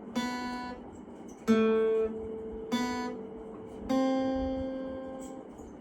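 Acoustic guitar music: four strummed chords a little over a second apart, the last one left to ring and slowly fade.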